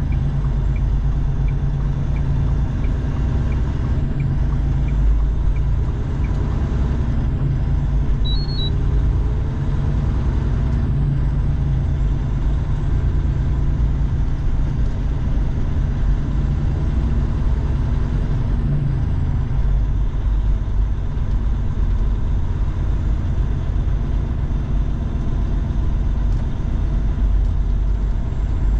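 Semi truck's diesel engine and road noise from inside the cab while driving: a steady low rumble.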